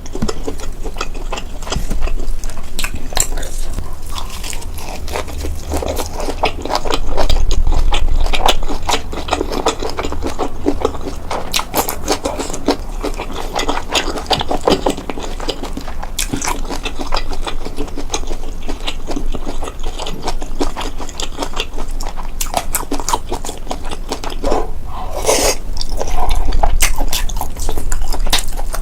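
Close-miked eating: steady chewing of fried chicken and noodles, dense with crisp crackles and wet mouth sounds, heavier in two stretches, with a brief louder swish near the end.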